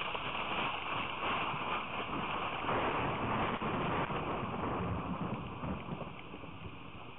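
Rain storm: a steady rush of rain with wind on the microphone, easing a little near the end.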